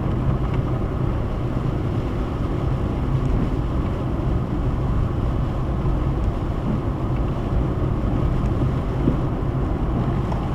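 Steady road and engine noise of a car driving at highway speed, heard inside the cabin.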